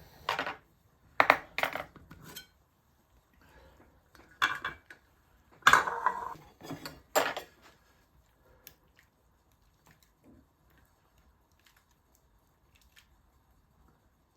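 Hard objects knocking and clattering together: a dozen or so sharp knocks in clusters over the first eight seconds, then only faint scattered clicks.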